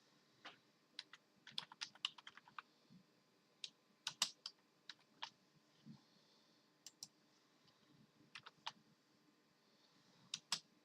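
Computer keyboard keys clicking in short, irregular bursts of keystrokes with pauses between them, the densest run about two seconds in.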